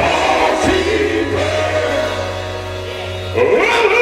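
Live gospel music: backing singers holding sung harmony over a steady low bass note, growing louder near the end.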